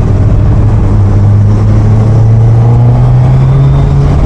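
Motorcycle engine running steadily at road speed, its note edging up in pitch about halfway through as it speeds up a little.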